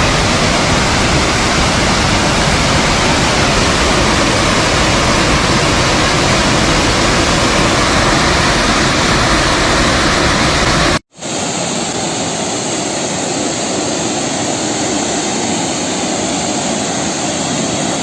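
Roar of a large waterfall plunging into its pool: a loud, steady rushing with a deep rumble underneath. About eleven seconds in it cuts out for an instant, then resumes with less of the low rumble.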